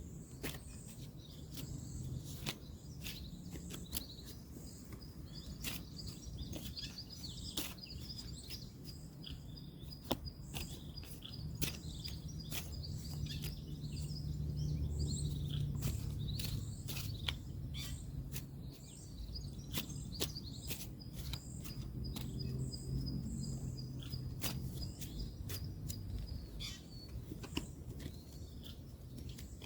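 Woodland ambience: birds chirping over a steady high insect-like trill, with a low rumble of distant road traffic that swells briefly about halfway through. Scattered sharp clicks and taps come every second or so.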